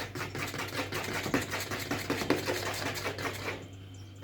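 Rapid, irregular clicking and scraping of kitchen utensils being worked, stopping about three and a half seconds in, over a steady low hum.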